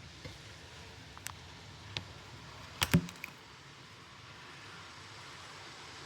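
A few sharp clicks and knocks, the loudest a quick double knock about three seconds in, over a steady hiss.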